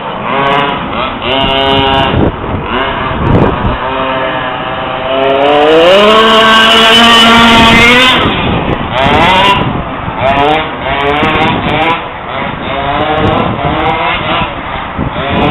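Engine of an FG 4WD monster truck revving up and down again and again, with one longer rev held at a steady high pitch about halfway through.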